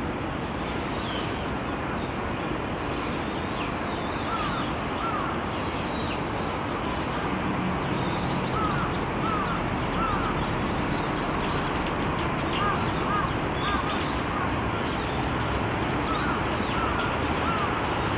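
A crow calling in short caws, mostly in pairs, repeated every few seconds over a steady background hiss.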